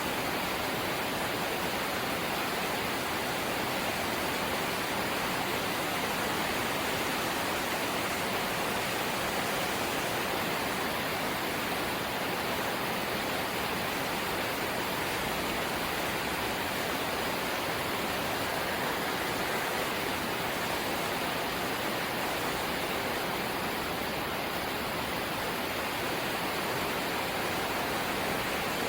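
Heavy rain falling on a corrugated zinc roof, a dense steady hiss at an even level with no let-up.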